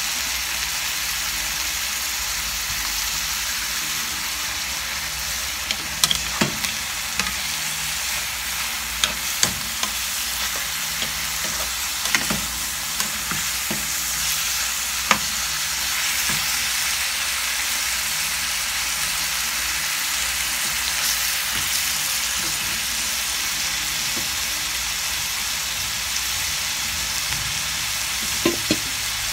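Chicken pieces sizzling steadily as they fry in oil in a pan. Sharp clacks of a spatula stirring against the pan come several times in the middle stretch and twice near the end.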